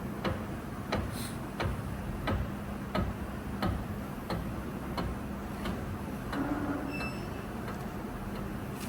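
Machining setup running with a steady low hum and a sharp click repeating about every two-thirds of a second while a bearing lock groove is cut in an engine main bearing cap.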